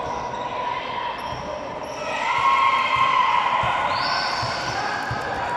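Ball thumping on the ground and being kicked during a football match: irregular dull thuds, with voices calling out across the pitch, loudest about two seconds in.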